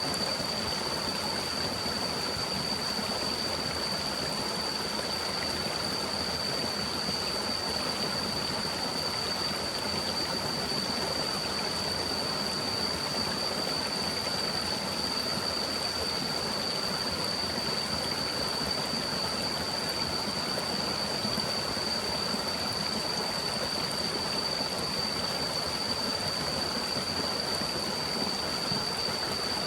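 A stream running steadily, with a continuous high-pitched tone held over it.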